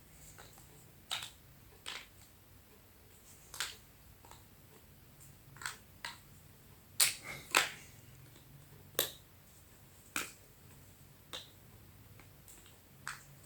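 Small plastic building blocks clicking as pieces are pressed and snapped together: about ten sharp, separate snaps at uneven spacing, the loudest pair about seven seconds in.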